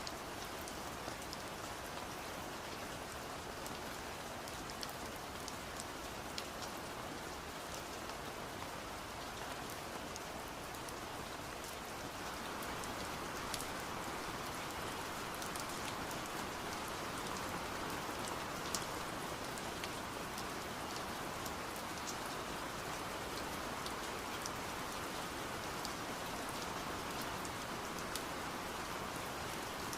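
Steady rain with scattered sharp taps of drops on window glass; it grows slightly louder about twelve seconds in.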